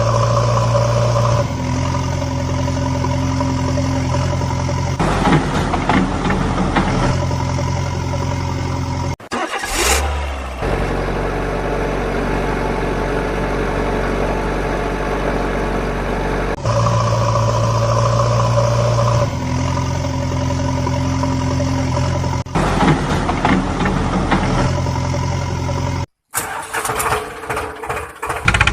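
Vehicle engine sounds, idling and running at changing speeds, in steady stretches that switch abruptly from one to the next. The same sequence seems to repeat about halfway through, as with a looped engine sound effect.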